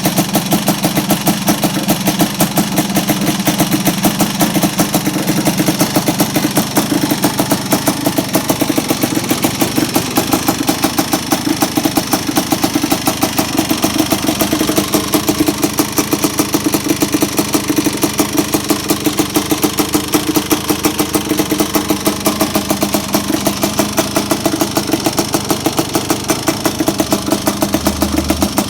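1986 Honda ATC 250R three-wheeler's two-stroke single-cylinder engine idling steadily, with an even, rapid pulse.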